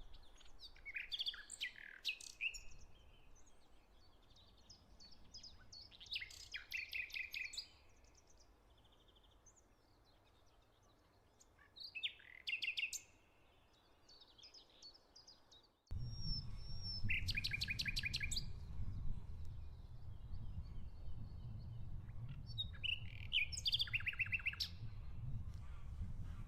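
Songbirds singing short, repeated phrases of fast notes every few seconds. About two-thirds of the way through there is an abrupt cut, after which a steady low rumble lies under the song.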